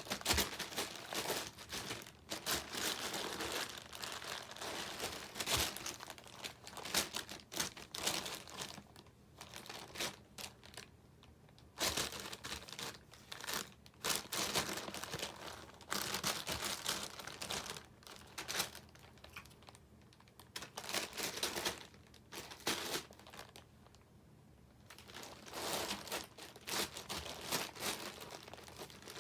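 Crinkly packaging crackling and rustling in bursts as a cat plays with it, pouncing and pawing, with short quiet pauses between the bouts.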